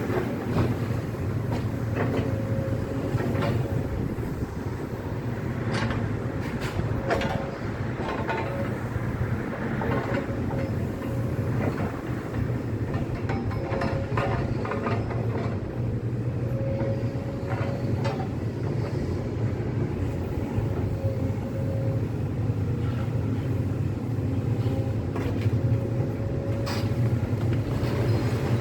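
Large tracked excavator's diesel engine running steadily, with a thin whine that comes and goes and scattered sharp knocks and crunches of demolition rubble.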